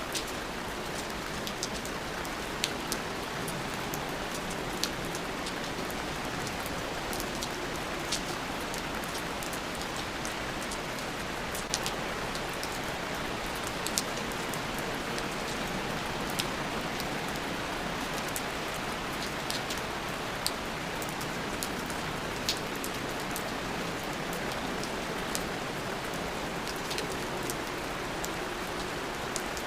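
Steady rain falling, a constant hiss with many scattered sharp drop ticks on top.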